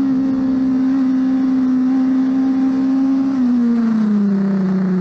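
Motorcycle engine running hard at a steady high pitch; about three seconds in, the revs drop and the note falls.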